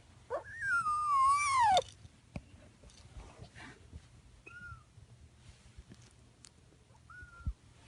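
A 3.5-week-old kitten meowing: one long, loud cry that rises and then falls in pitch, followed later by two short, faint chirps.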